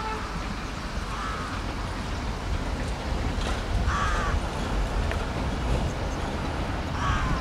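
A bird gives three short calls, about three seconds apart, over a low steady rumble.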